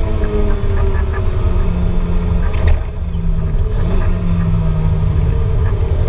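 Interior sound of a 2008 Lotus Exige S240's supercharged 1.8-litre four-cylinder as the car slows off the pace: the engine note falls in pitch, then holds at a lower steady pitch. Heavy road and wind rumble runs underneath.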